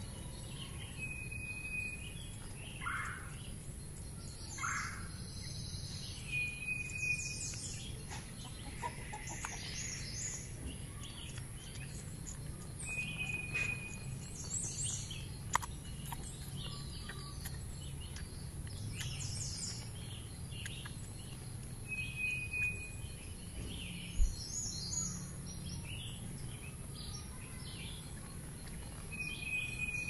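Wild birds calling: a short, steady whistled note repeating about every six seconds, with scattered higher chirps between, over a low steady hum. Two sharp clicks, one about halfway through and a louder one about four-fifths through.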